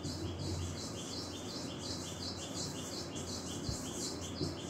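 A bird chirping steadily in the background, about three short high chirps a second in an even repeating rhythm.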